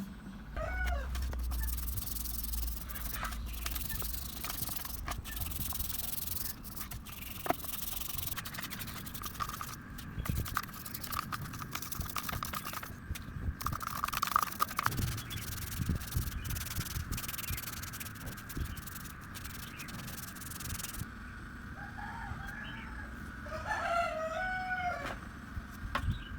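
Rough scraping and rubbing, with many small clicks, for most of the clip, then stopping. A rooster crows in the background near the end.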